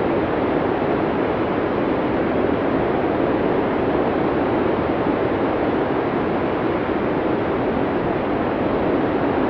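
Blizzard sound effect: strong wind rushing in a steady, unbroken wash, with its weight in the low-middle range and no gusts or lulls.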